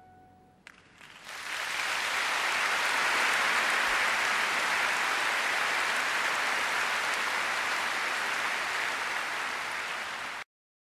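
The last held note of the song's accompaniment fading, then an audience applauding, rising in over about a second and held steady until it cuts off abruptly near the end.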